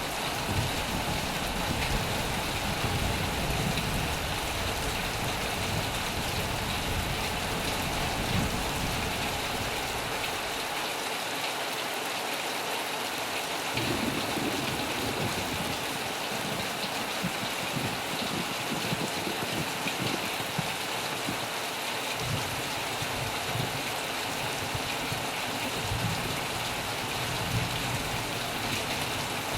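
Heavy rain falling steadily on a metal roof, an even hiss of drops. A low rumble runs beneath it and fades out for a few seconds near the middle.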